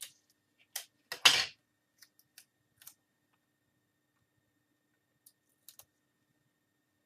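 Hands applying adhesive tape to laptop screen cables: a few light clicks and taps, with one louder short rasp about a second in, like tape pulled or torn from its roll.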